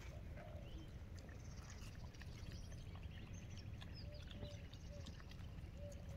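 Faint outdoor ambience: a low steady rumble with a few short, soft bird calls, three of them in quick succession a little past the middle.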